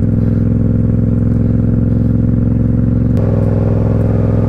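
Motorcycle engine running steadily under way, with a step in pitch about three seconds in.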